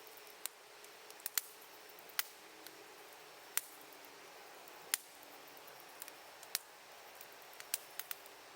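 Campfire wood crackling: sharp pops at irregular intervals over a faint steady hiss.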